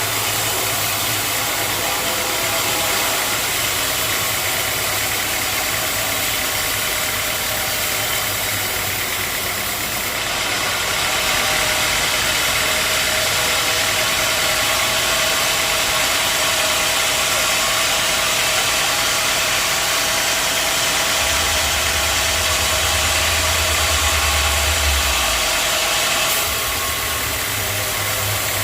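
Sawmill engine running steadily. A louder hiss joins about ten seconds in and stops a couple of seconds before the end.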